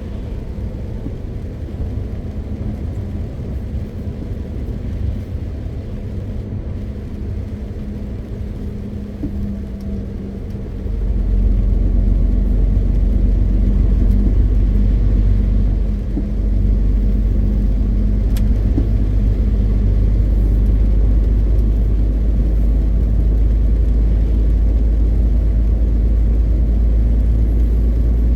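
MAN TGX 520 truck driving along: a steady low rumble of engine and road noise. About eleven seconds in it gets louder and deeper, with a brief drop a few seconds later.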